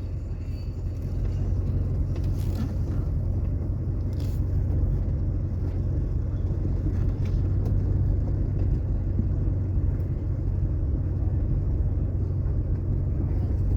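1981 Cadillac Seville driving slowly: a steady low rumble of engine and road noise.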